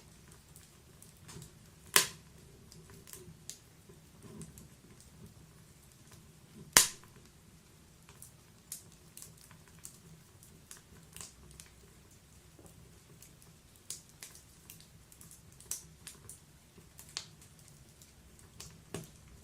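Wood fire in a fireplace crackling: irregular small snaps and pops over a faint low rumble of the flames, with two loud sharp pops about two seconds in and about seven seconds in.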